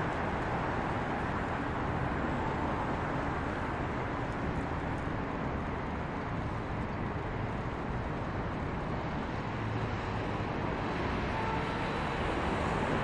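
Steady, even rumble of distant engines, growing a little louder near the end.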